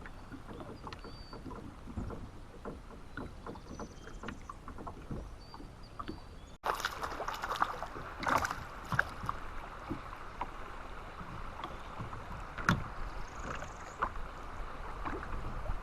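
Kayak on moving water: water sounds with small knocks and clicks against the hull. The sound breaks off abruptly about six and a half seconds in and comes back louder and busier.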